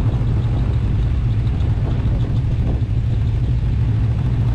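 Snowmobile engine running at a steady speed, a constant low drone.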